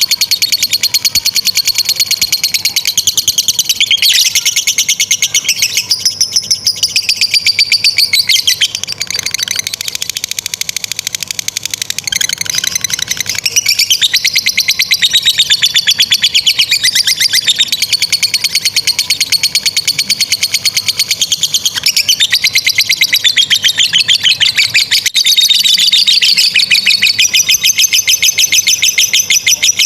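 Lovebirds 'ngekek panjang': a long, unbroken run of rapid high-pitched chattering trills, the pitch bending up and down, with a slightly weaker stretch in the middle. This is the long chattering song that keepers prize in a bird in full voice.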